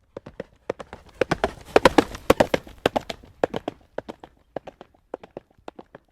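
Horse hooves trotting on a hard road surface in a quick clip-clop. The hoofbeats grow louder to a peak about two seconds in, then fade.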